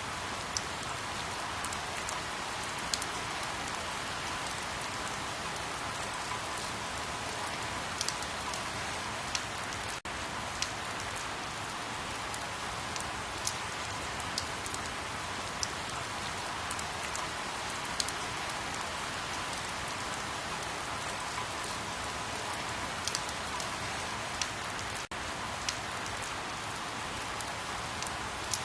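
Steady rain falling: a constant hiss with scattered sharper drop clicks. It cuts out for an instant twice, about ten seconds in and again near 25 seconds.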